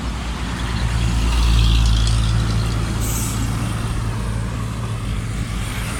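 Road traffic passing close by: a low engine rumble swells about a second in and slowly eases off, with a short hiss about three seconds in.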